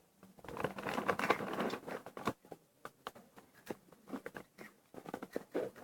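Close-up crunching of crispy fried potato sticks being chewed: irregular sharp crackles and crunches, denser during the first two seconds and sparser after.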